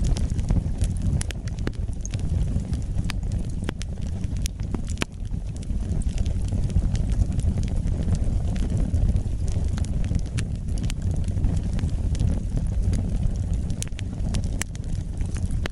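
Wood fire burning in a fireplace: a steady low rumble with irregular, sharp crackles and pops scattered throughout.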